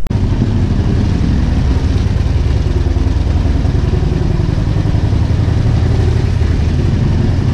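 Harley-Davidson Road King's air-cooled Twin Cam 88 V-twin running steadily at low road speed. Its exhaust beat is heard up close from on the bike.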